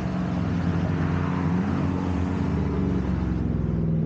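Truck engine running through a straight-piped exhaust with the mufflers removed, a steady deep note whose pitch rises briefly about one and a half seconds in.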